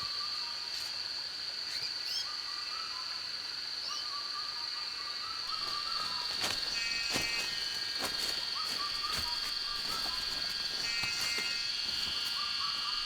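Rainforest insects droning steadily at a high pitch, with short calls from another animal repeating every second or two and a few clicks.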